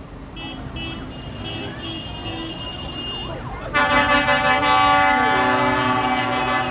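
Passing vehicles running, then about four seconds in a loud horn or siren starts, holding one steady many-toned note.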